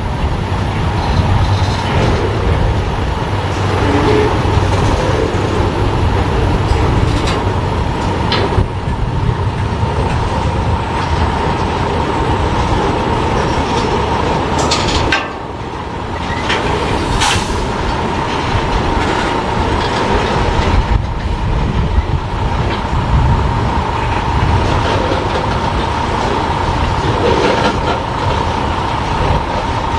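Freight train cars rolling past close by: empty centerbeam flatcars, a tank car and open hopper cars, with wheels rumbling and clacking over the rail joints. A steady high whine from the wheels runs under it, and there are scattered knocks.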